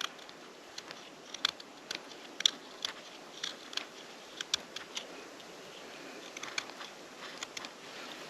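Wood fire crackling, with irregular sharp snaps and pops, a few a second, over a faint steady hiss.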